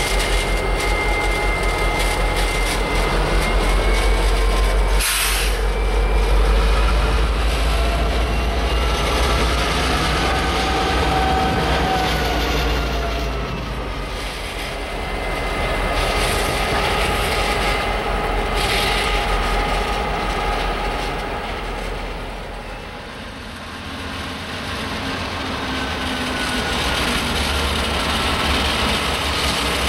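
Diesel freight locomotives and cars rolling slowly through a rail yard: a steady low rumble of engines and wheels on track. Thin high-pitched squealing tones come and go, typical of wheel flanges squealing on yard curves.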